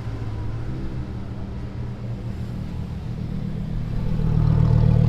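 Lamborghini supercar engine running at low revs with a deep rumble, getting louder near the end as the revs and volume rise.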